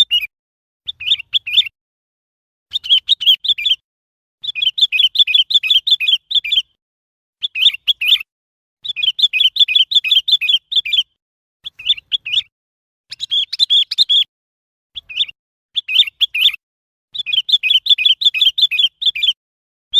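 Sooty-headed bulbul calling in quick runs of chirping notes. The phrases last about one to two seconds and come again and again, with short silent gaps between them.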